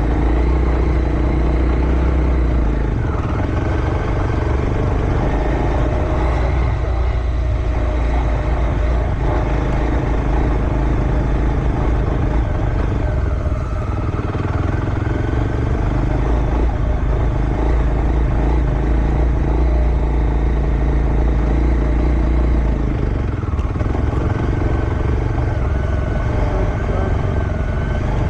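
Motocross bike engine running at low revs on a slow lap, its note dipping a couple of times as the throttle eases.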